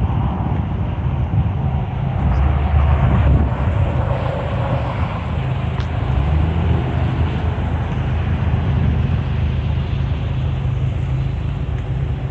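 Car engine idling, a steady low rumble with no revving, with some wind on the microphone.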